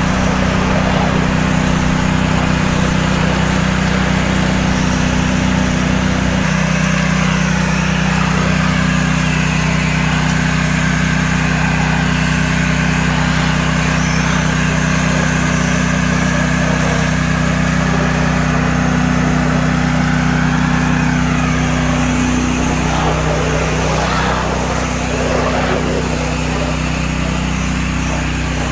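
Gas engine of a pressure-washing rig running steadily under load, with the hiss of spray on the house. The engine note shifts slightly about six seconds in.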